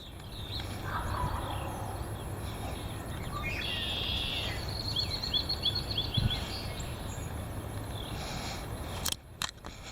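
Wind buffeting the microphone as a steady low rumble, with small birds calling over it: a quick run of about eight short chirps around the middle and a few other scattered calls.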